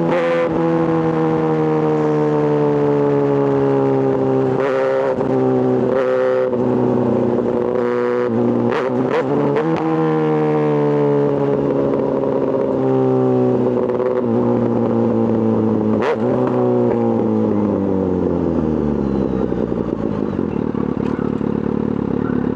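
Kawasaki ZX-6R inline-four motorcycle engine running, its pitch sliding slowly and steadily down as it loses revs, with a few short clicks along the way and a steeper drop near the end.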